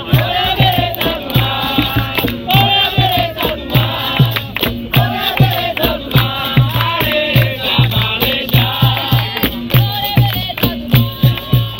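Capoeira roda music: a group singing together in chant-like phrases over steady, regular hand-drum beats and percussion.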